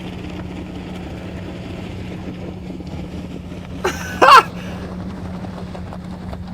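Car engine and road noise running steadily from a crash-compilation clip. About four seconds in, a very brief, loud, high-pitched sound with a wavering, falling pitch cuts through it.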